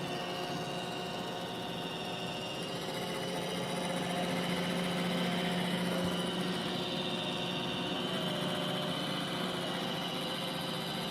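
iRobot Roomba i7+ robot vacuum running as it cleans: a steady motor whir with a low hum and a high whine.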